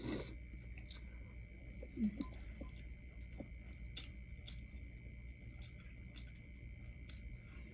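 Close-miked chewing of a mouthful of pho: soft wet mouth clicks and smacks scattered through, with a brief hum of enjoyment about two seconds in. A faint steady high-pitched hum runs underneath.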